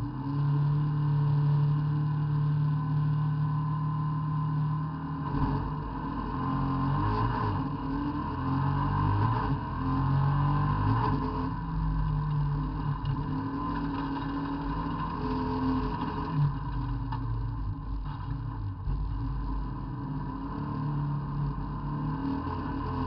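Race car's engine heard from inside the cabin, held at steady revs for about five seconds, then pulling away hard. Heavy rumble from the road and the engine rising and falling through the gears follow as it races along the track.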